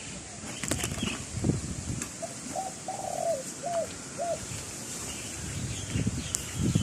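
A dove cooing: a quick run of about five short coo notes a couple of seconds in, over low rumbles of wind on the microphone.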